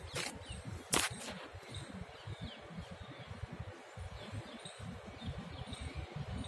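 Birds chirping faintly in the trees over an uneven low rumble, with a sharp click about a second in.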